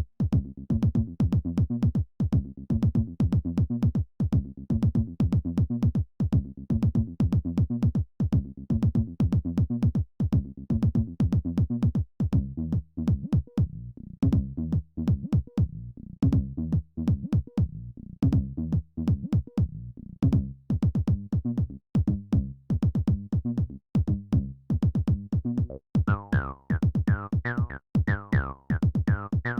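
Roland T-8 drum machine and bass synthesizer playing an electronic pattern: a steady repeating drum beat over a low bass line. Near the end a brighter synth line with sweeping pitch comes in.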